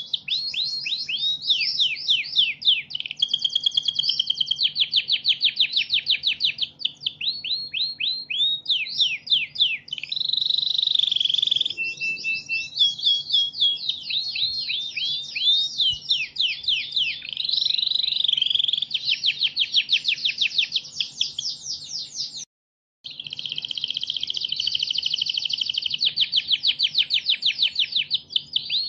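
Recorded songbird singing a fast, continuous string of sharp, high, downward-slurred chirps, about eight a second, in the aggressive 'fighter' style of song used as masteran. The sound cuts out for a moment about two-thirds of the way through.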